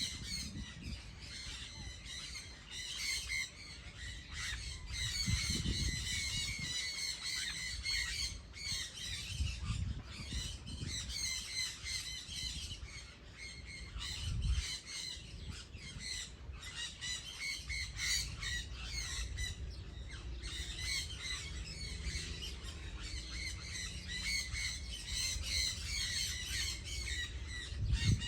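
A flock of birds calling without pause: a dense chorus of many short, repeated calls overlapping one another, with an intermittent low rumble underneath.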